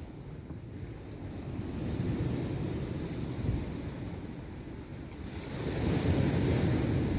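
Black Sea waves washing onto the shore, the surge building about two seconds in and again more strongly near the end, with wind rumbling on the microphone.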